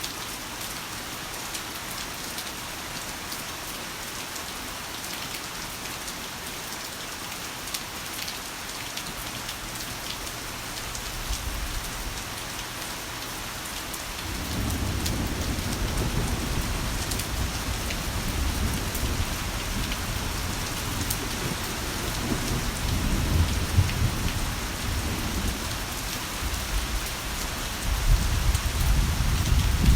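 Heavy rain falling steadily, with thunder rolling in about halfway through as a long deep rumble that swells again near the end.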